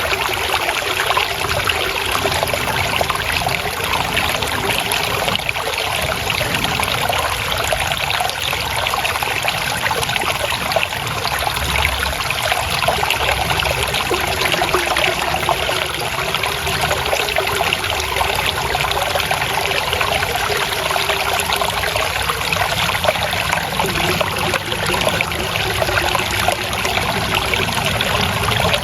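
Water flowing and trickling steadily over stones, a constant babbling with no change.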